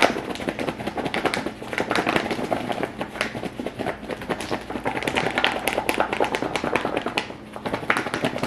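Watermelon pieces coated in Kool-Aid powder and sugar being shaken hard by hand, a fast, uneven run of rattling knocks and rustles.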